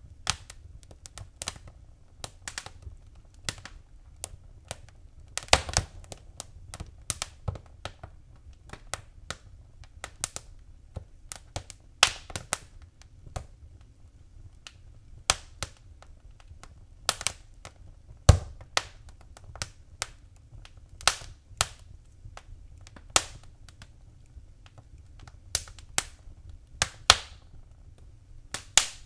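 Wood fire crackling in a fireplace: irregular sharp pops and snaps, a few louder cracks among many small ones, over a faint low rumble of the burning fire.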